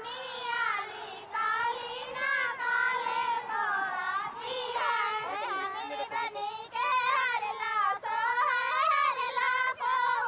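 Singing in high voices, the melody turning quickly up and down over a steadily held lower note.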